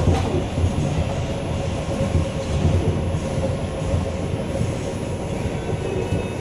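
R142 subway train heard from inside the car while running: a steady rumble of wheels on the track, with a faint steady whine over it.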